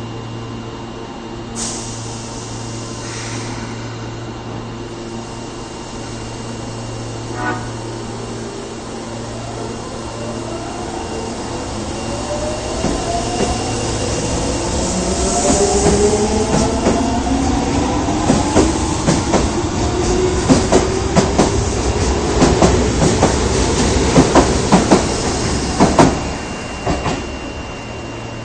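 Osaka subway 22 series electric train pulling out of a station: a short horn blast early on, then the traction motors' whine rising steadily in pitch as it accelerates, and the wheels clacking rapidly over rail joints as the cars pass, dropping away near the end.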